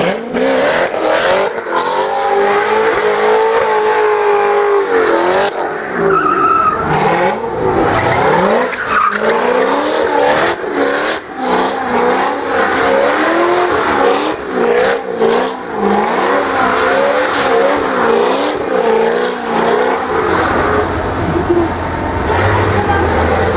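Supercharged 6.2-litre V8 of a Chevrolet Corvette ZR1 with a Corsa exhaust, held at high revs during a burnout, the revs rising and falling as the throttle is worked while the rear tyres spin and squeal. Near the end the revs settle lower and a deep rumble comes in.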